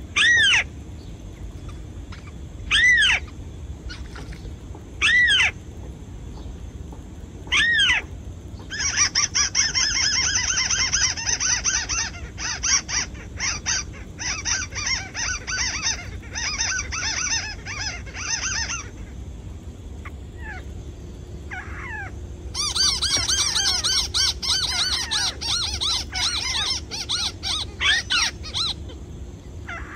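Lure bird calls at a snare trap, drawing wild birds in. First come four single downward-sliding calls about every two and a half seconds, then two long runs of rapid chattering calls.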